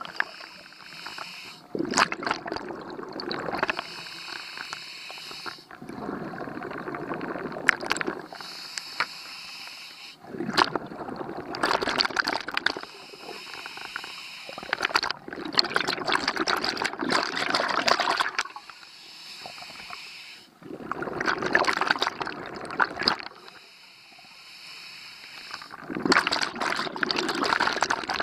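Scuba diver breathing underwater through a regulator: a hissing inhale, then a long bubbling exhale, about six breaths, one every four to five seconds.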